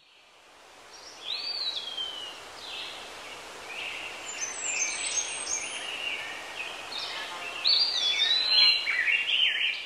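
Birds chirping and singing over a steady hiss, several short calls sliding down in pitch, busiest in the second half.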